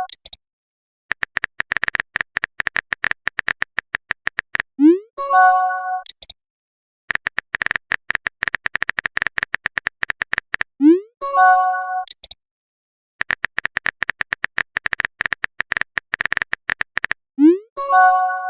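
Chat-message sound effects repeating three times: a run of rapid typing clicks, then a short rising pop and a brief chime as each message arrives.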